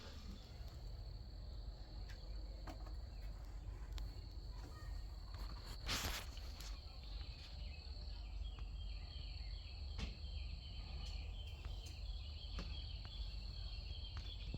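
Faint, steady high-pitched insect chirping, with a run of quick repeated chirps in the second half, over a low hum and a few soft clicks.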